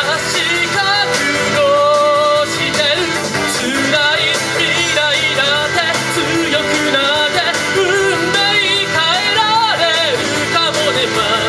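A rock-style song sung live over loud band accompaniment. The singer's wavering, held notes ride over a steady drum beat.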